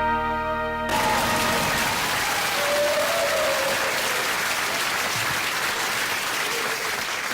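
The song's last held chord cuts off about a second in, and an audience applauds steadily after it.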